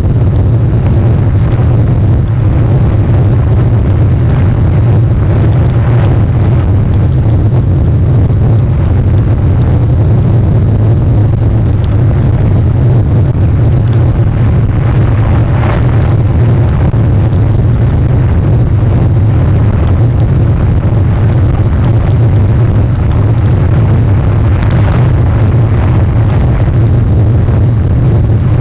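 A loud, steady low rumble with a hiss above it, unchanging throughout, with a few faint brief sounds on top.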